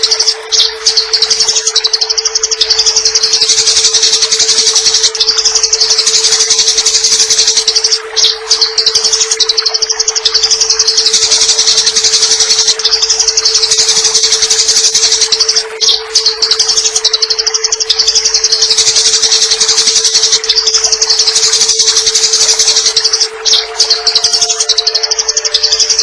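Eurasian tree sparrows chattering rapidly and densely, the aggressive 'fighting' calls used as training audio for songbirds. It is a looped recording with short breaks about every eight seconds, over a steady low hum.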